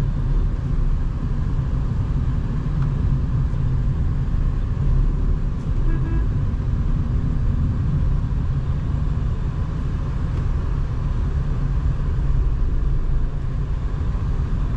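Tata Nexon engine and road noise while driving, a steady low rumble.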